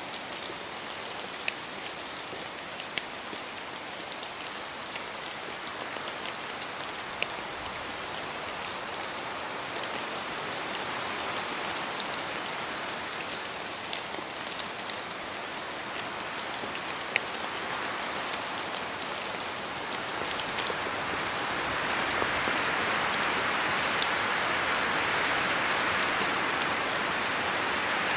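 Steady rainfall, a continuous hiss with many separate drops ticking through it, growing louder about three-quarters of the way through.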